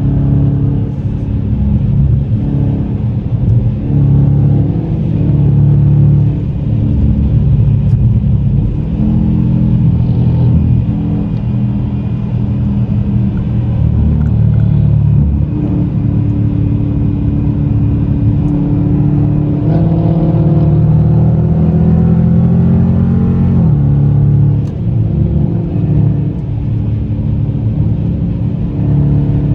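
Car engine running loudly as the car drives, a steady low rumble whose pitch steps up about twenty seconds in and falls away a few seconds later as the revs change.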